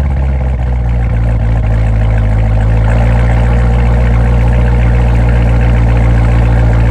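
Muscle car's V8 engine idling steadily, just after start-up.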